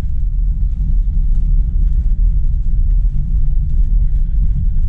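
Steady low road and tyre rumble inside the cabin of a Tesla electric car driving on a rain-soaked road.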